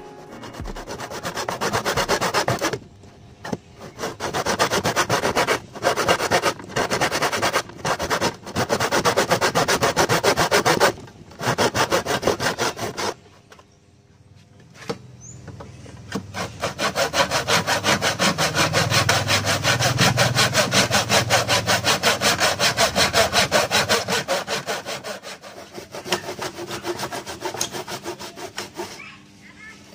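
A hand back saw cutting wood in a mitre box, going back and forth in quick strokes. It saws in several runs with short pauses between them.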